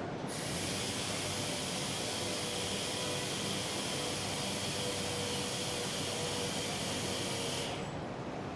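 A steady hiss, like air or spray escaping, starts suddenly just after the beginning and cuts off abruptly near the end, with a faint steady tone underneath.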